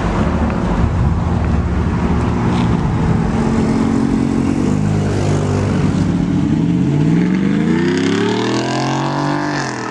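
Loud car engine and exhaust running at low revs, then revving up with a rising pitch about seven seconds in.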